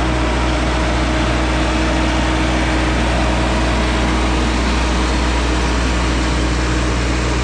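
Kubota M135GX tractor running steadily, driving a PTO manure pit agitator that is stirring the slurry: a constant low engine hum under an even rushing noise.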